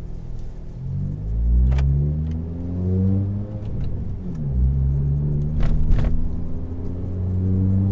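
2018 Honda Accord's turbocharged four-cylinder, exhaust open with the resonator and muffler deleted, pulling through the gears: the engine note climbs, drops at a shift about four seconds in, then climbs again. A few short sharp clicks come through partway.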